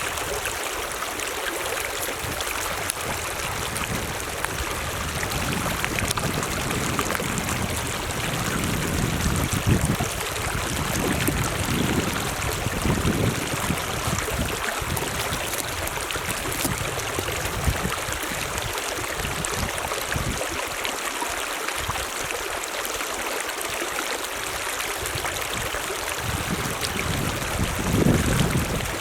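Mountain stream running water: a steady rushing noise, with a few louder low swells around ten to thirteen seconds in and again near the end.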